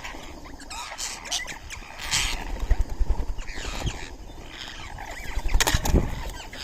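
Birds chirping and calling in short rising and falling notes, with two harsh, noisy bursts, one about two seconds in and one near the end, over scattered low thumps.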